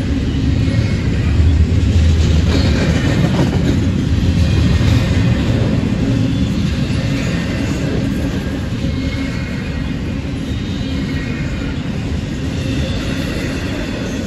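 Freight train of double-stack container cars rolling past close by: a steady rumble and rattle of steel wheels on rail, loudest about two seconds in and easing a little after.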